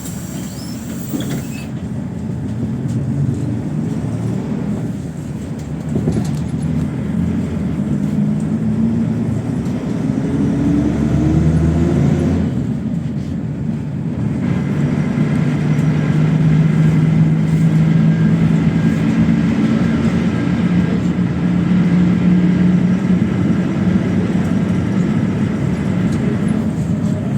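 PAZ 32054 bus engine pulling away: its note rises through a gear, drops at a gear change about halfway through, then runs steadily as the bus picks up speed. A short hiss of air comes right at the start.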